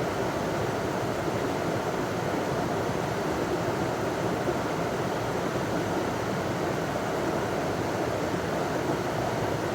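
River water spilling over a small waterfall: a steady, even rush with no let-up.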